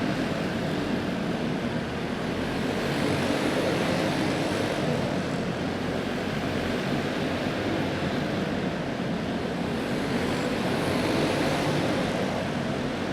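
A pack of racing karts with small single-cylinder clone engines running at full throttle around a dirt oval, a steady dense engine drone that swells a little twice as the field comes by.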